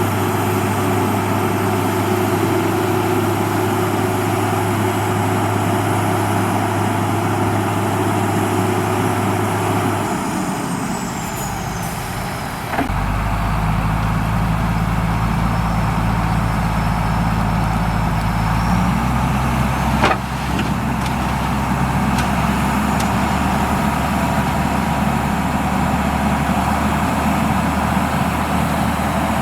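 Heavy diesel engine of earthmoving machinery running steadily. Its pitch falls away about ten seconds in, then it jumps to a new steady speed just before thirteen seconds. There is one sharp click around twenty seconds in.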